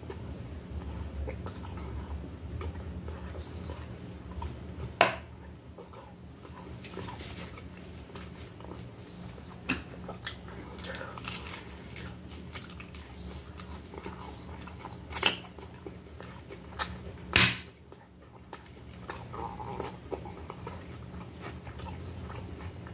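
Eating sounds: biting and chewing a toasted pressed sandwich, with several sharp crunches, over a steady low hum. A few faint, short, high squeaks come and go.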